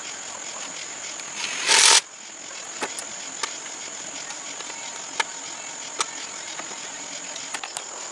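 A short hissing burst about two seconds in, then scattered sharp clicks and light knocks of tools and metal parts being handled, over a steady high insect drone.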